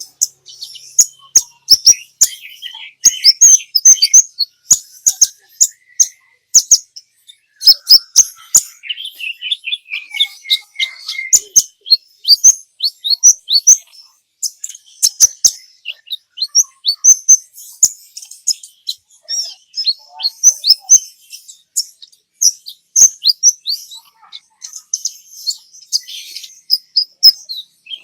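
Sunbird ('kolibri ninja') singing in rapid, high-pitched bursts of sharp chirps and quick down-slurred notes, almost without pause.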